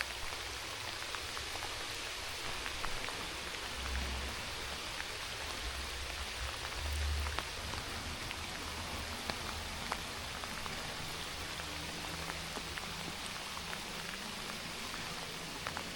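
Steady rain falling, an even hiss with individual drops ticking close by. Twice a brief low rumble, about four and seven seconds in.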